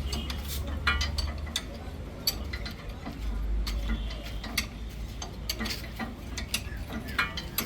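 Irregular metallic clicks and clinks of hand tools on bolts as a tractor bumper is bolted on, over a low steady hum.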